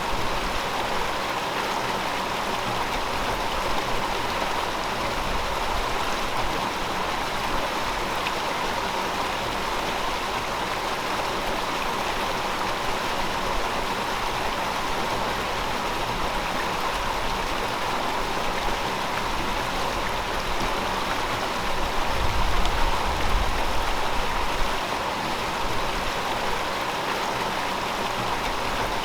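River water flowing steadily over rocks, an even rushing babble with no let-up. A low rumble swells briefly about three-quarters of the way through.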